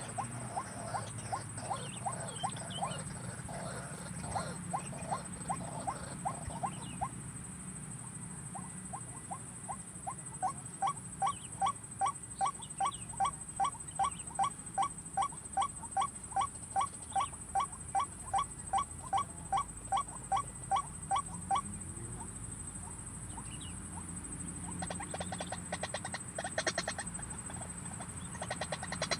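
White-breasted waterhen calling: a long series of short repeated notes, fainter for the first few seconds, then louder and faster at about three a second before stopping about two-thirds of the way through. A steady high-pitched whine runs underneath.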